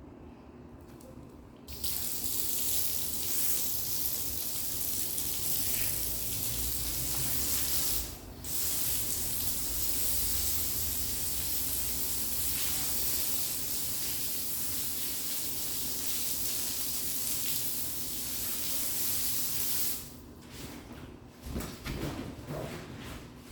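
Water running steadily from a tap, stopping briefly once about eight seconds in, then shut off near the end, followed by a few light knocks.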